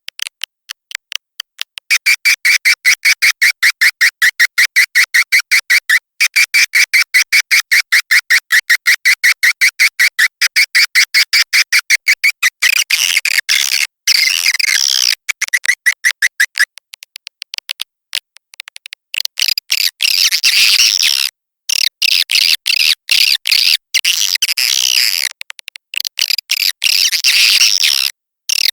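Edible-nest swiftlet call-lure recording: rapid chittering trains of chirps, about ten a second, broken by short pauses. The first half is a lower, even buzzing run; the second half turns to higher, more ragged chittering.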